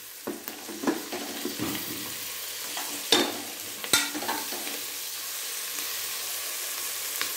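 Ginger-garlic paste and onions sizzling steadily in hot oil in an aluminium pressure cooker while a perforated steel ladle stirs and scrapes the pan. The ladle clicks sharply against the pot a few times, loudest about three and four seconds in.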